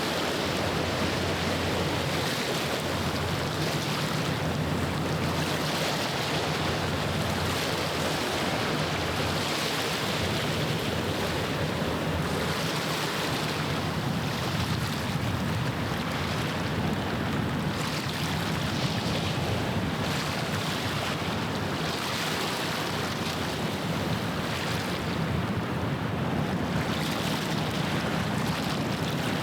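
Small waves washing against the shore in surges every couple of seconds over a steady rush of water, with the low, steady drone of a passing ship's engine underneath.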